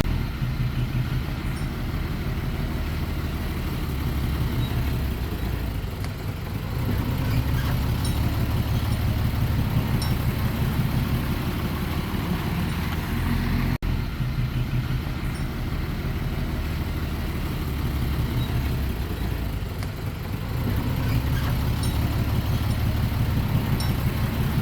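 Heavy diesel engine of earthmoving machinery running with a low, pulsing rumble that swells and eases a few times. It cuts out for an instant about 14 seconds in.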